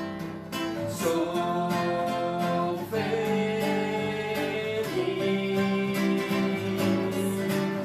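A song sung with acoustic guitar accompaniment: the voice holds long notes on the words "sou feliz" over strummed guitar chords.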